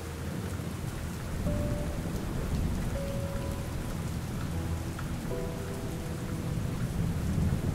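Steady rain falling with a continuous low rumble of thunder, and a few faint held notes of soft background music over it.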